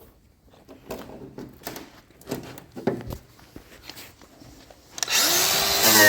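A few light knocks and clicks of tool handling, then about five seconds in a handheld power tool starts, spinning up in pitch and running loud and steady.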